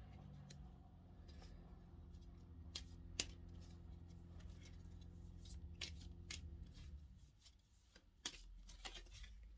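Faint handling and shuffling of a deck of reading cards: scattered soft clicks and snaps of card edges, over a low steady hum that fades about seven seconds in.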